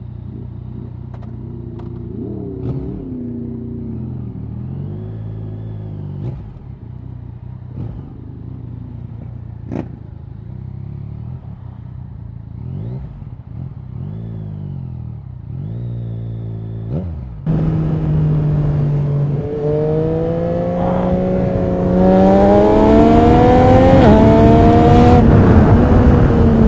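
Yamaha MT-09 SP's three-cylinder engine through an Akrapovic racing exhaust, idling with short throttle blips and a few sharp pops. About two-thirds of the way through it gets suddenly louder as the bike pulls away, the revs climbing in steps through the gears with wind noise rising.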